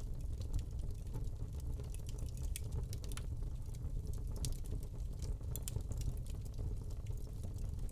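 Wood fire burning in a fireplace: a low steady rumble of flame with irregular small crackles and pops from the burning log.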